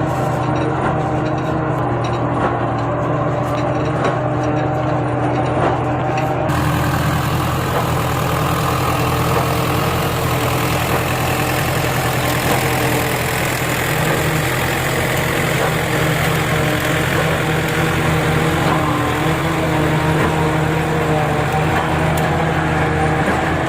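Tractor engine running steadily. About six seconds in, a broader hiss joins it.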